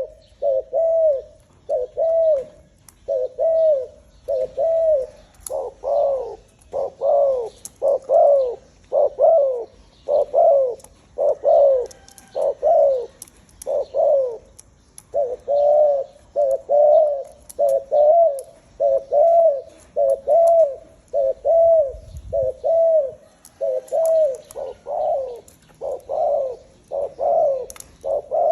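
A dove cooing over and over, short bending notes about one a second without pause, loudest from about six to fourteen seconds in.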